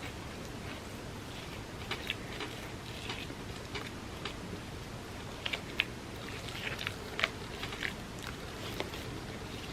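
Close-miked chewing of soft chocolate cake soaked in almond milk: irregular wet mouth clicks and smacks over a steady low hiss.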